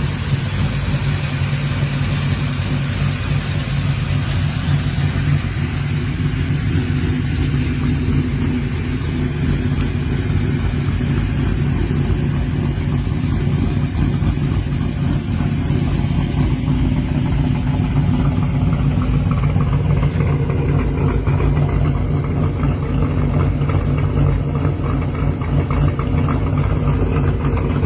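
Muscle car's V8 engine rumbling steadily at low revs, with a deep exhaust note and no sharp revving.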